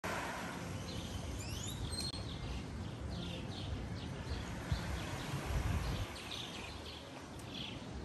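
Birds calling in short, repeated chirps over a steady low rumble of outdoor noise.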